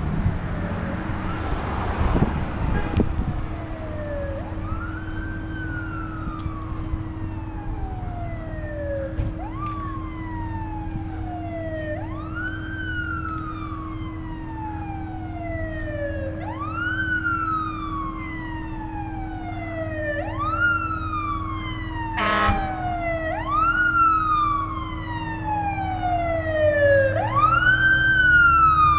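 Siren of a 1991 Seagrave fire engine responding: a wail that climbs quickly and falls slowly, repeating about every four seconds, over the low rumble of the truck. There is a short blast about 22 seconds in.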